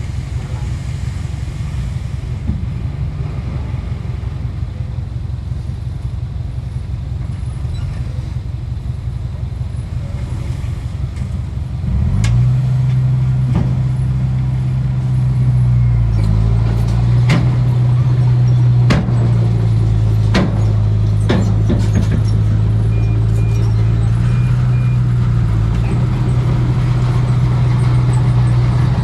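Heavy earthmoving machine's diesel engine running steadily, then revving up and staying under load from about twelve seconds in. Several sharp metallic clanks and knocks come over the next ten seconds.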